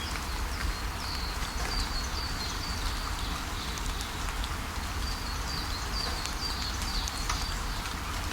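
Steady rainfall with scattered drop ticks over a low rumble, while birds chirp in quick runs of short high notes, twice.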